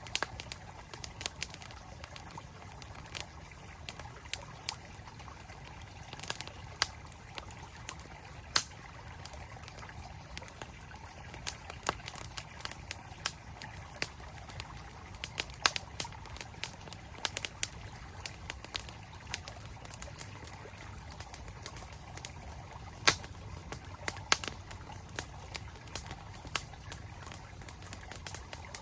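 Campfire wood crackling and popping in irregular sharp snaps, one loud pop about 23 seconds in, over the steady rush of a flowing mountain stream.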